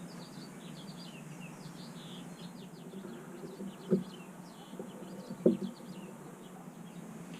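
Small birds chirping over a steady low hum, with two sharp knocks about four and five and a half seconds in that are the loudest sounds.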